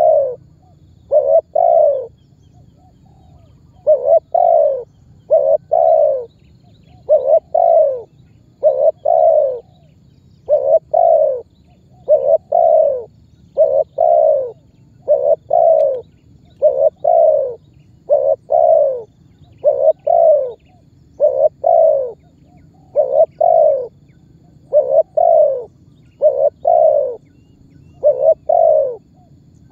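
Spotted dove (tekukur) cooing steadily, a repeating phrase of short paired coo notes roughly every one and a half to two seconds: the calling song used as a lure to draw other doves to answer.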